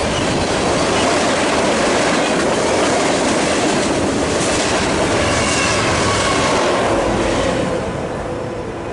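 Freight train cars rolling past close by, wheels clattering over the rail joints, with a faint wheel squeal a little past halfway. The sound fades toward the end as the train moves off.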